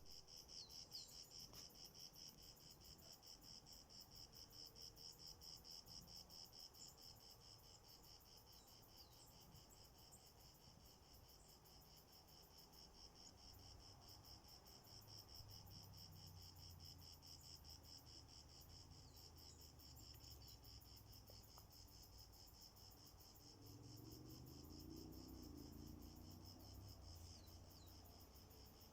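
Crickets chirping in a faint, steady, fast-pulsing high trill.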